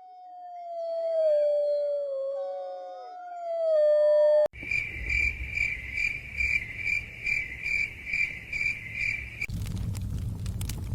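Several overlapping long howls, slowly sliding down in pitch, that stop abruptly. They are followed by an insect, a cricket, chirping in an even high pulsing trill of about three pulses a second. Near the end this gives way to a fireplace crackling over a low rumble.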